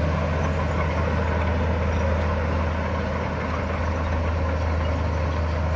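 Bulldozer's diesel engine running steadily, a low even hum with no change in level.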